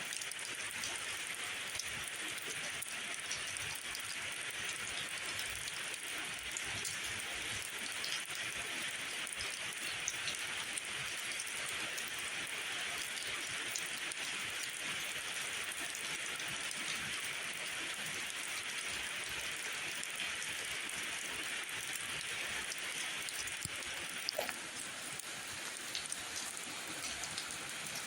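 Steady rain falling, an even hiss dotted with scattered sharp drop ticks, with a brief cluster of louder ticks about 24 seconds in.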